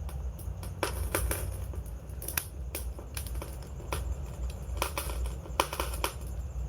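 Wood fire crackling: irregular sharp pops and snaps, some in quick clusters, over a steady low rumble.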